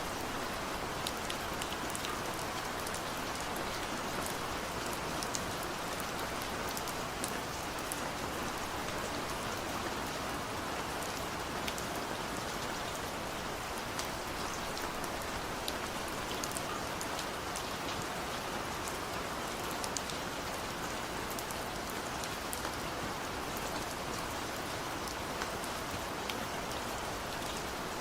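Steady rainfall, an even hiss of rain with scattered sharp drop ticks.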